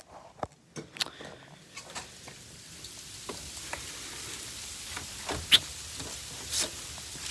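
A few clicks and knocks, then a steady hiss of falling winter-storm rain or sleet that swells in about two seconds in, with scattered sharp ticks.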